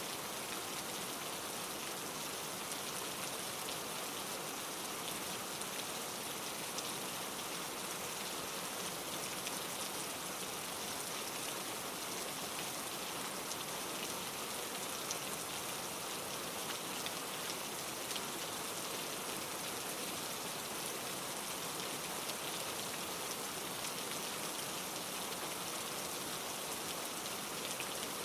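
Steady rain falling: a dense, even hiss of many small drops, with an occasional slightly louder tick standing out.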